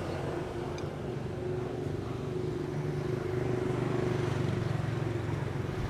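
A motor vehicle engine in street traffic runs with a steady low hum, growing louder around the middle and then easing off as it passes.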